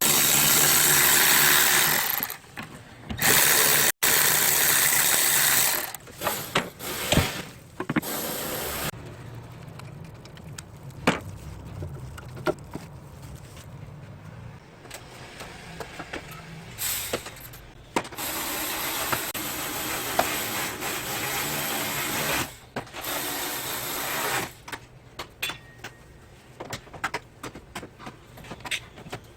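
Workshop tool noise in several loud bursts of a few seconds each, starting and stopping abruptly, with clicks and knocks in between.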